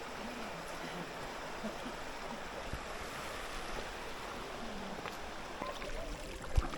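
Waterfall and river water rushing steadily. A single low thump near the end.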